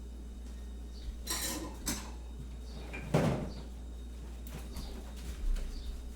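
Kitchen crockery and cutlery clattering: a few separate clinks and knocks as dishes and utensils are handled and set down, the loudest about three seconds in.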